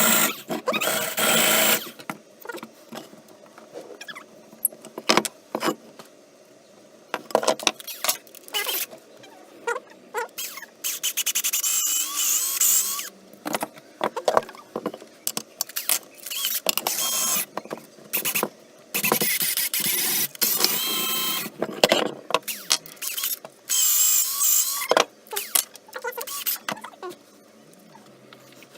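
Workshop tool noise: repeated bursts of about one to two seconds with a wavering squeal in some of them, and scattered clicks and knocks in between.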